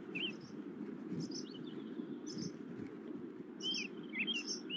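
Short high bird chirps, each a quick bend in pitch, coming a few at a time and more often near the end, over a steady low hiss.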